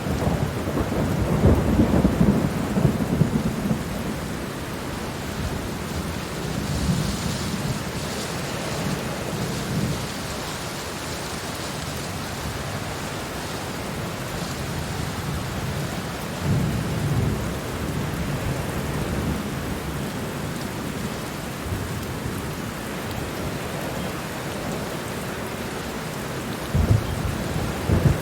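Steady heavy rain with thunder rolling through it: a long low rumble in the first few seconds, further rolls about a third and two thirds of the way through, and a sharper clap near the end.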